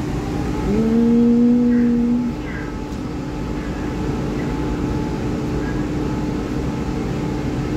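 EMU3000 electric train standing at an underground platform, its equipment giving a steady hum over a broad rumble. About a second in, a two-tone train horn sounds for roughly a second and a half, sliding up briefly at the start, then holding steady and cutting off.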